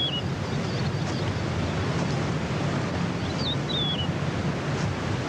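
Steady rushing wind with a low rumble. A bird gives a short whistled call that wavers and falls, once at the very start and again a little past three seconds in.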